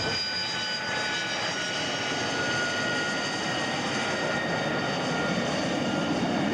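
Engine of a radio-controlled scale model Hawker Harrier running at high revs: a steady high-pitched whine whose pitch drifts slightly.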